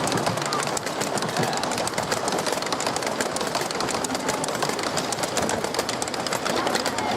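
Miniature railway train running past with a steady, rapid clicking and clatter.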